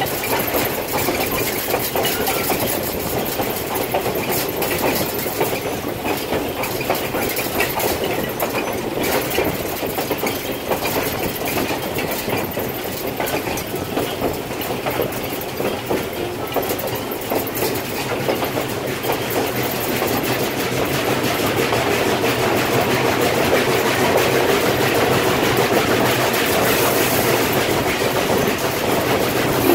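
Passenger train rolling along the track, heard from aboard: a steady rumble with the wheels clicking over rail joints, growing a little louder over the last several seconds.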